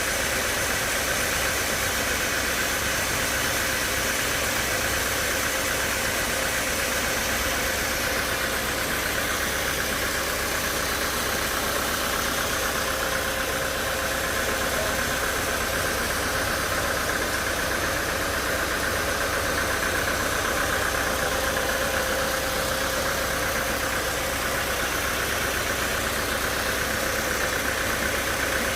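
Sawmill machinery running steadily: a continuous mechanical noise with a faint high whine, unchanging throughout.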